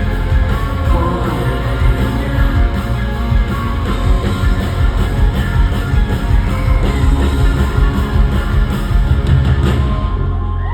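Loud rock music with a heavy, pounding beat; it stops about ten seconds in, leaving a steady low drone.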